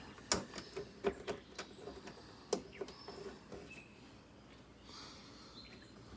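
Irregular sharp clicks and knocks of screws and the air conditioner's sheet-metal cabinet being handled during reassembly, a few with a short metallic ring; the loudest come in the first three seconds, quieter ones after.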